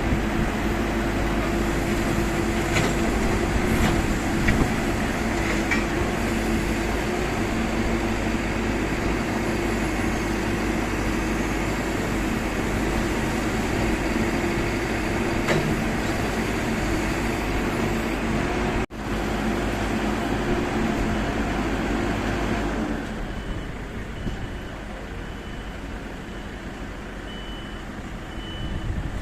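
Heavy diesel machinery or vehicles running at a roadworks site, a steady engine hum with traffic. Near the end the hum drops away and a high beep repeats about once a second.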